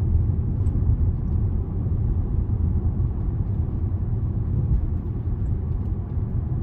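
Steady low road rumble of a car heard from inside the cabin while driving at speed: engine and tyre noise with no sharp events.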